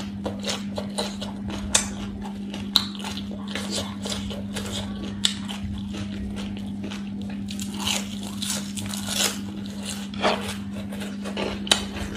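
Close-miked chewing and crunching of crisp raw vegetable salad and fried fritters, with many short, sharp crunches at uneven intervals. A steady low hum runs underneath.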